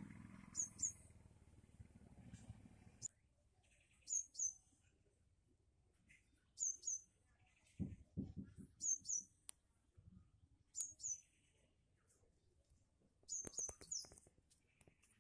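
A small bird calling in short, high double chirps, repeated every second or two. There is a low rumble in the first few seconds and a few low thumps about halfway through.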